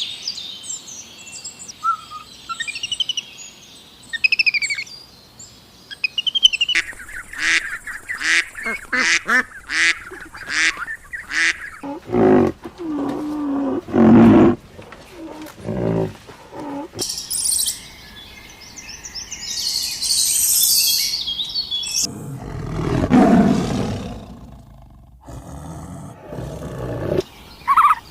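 A series of different animal calls, one after another. It opens with birds chirping, then a fast run of short, sharp calls, followed by lower, louder calls.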